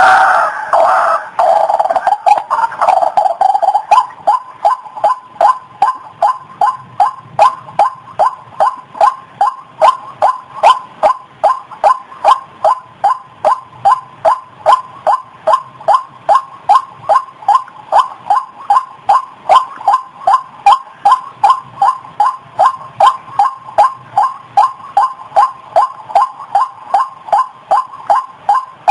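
White-breasted waterhen calling: loud, harsh croaking calls for the first few seconds, then a long, even series of short repeated notes at about two to three a second.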